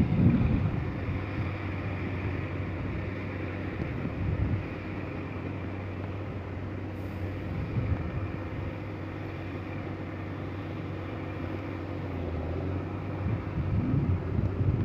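A heavy truck's engine running steadily under load, a low even hum that swells louder near the start and again near the end.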